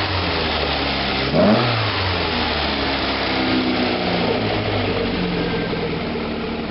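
Volkswagen Golf GTI 1.6 four-cylinder engine on twin Weber 40 DCOE carburettors, 4-1 headers and a 2-inch exhaust, running at its first start after being swapped in. It is given one short throttle blip about a second and a half in, then settles back to a steady idle.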